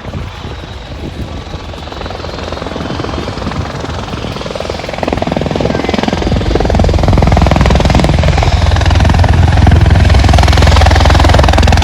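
Helicopter rotor and engine noise, growing louder over the first several seconds, then loud and steady with a deep, rapid beat.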